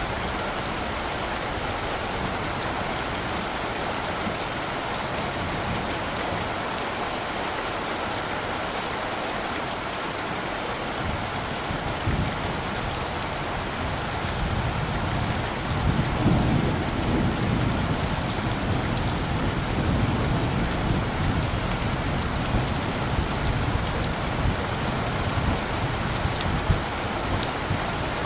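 Steady heavy rain with fine drop ticks, joined about halfway through by a low rumble of distant thunder that swells and then lingers.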